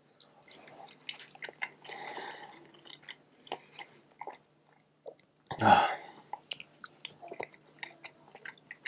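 A man chewing a bite of tender smoked beef chuck roast: soft, wet clicks and smacks of the mouth. A little past halfway there is a short sound of his voice, an appreciative "mm".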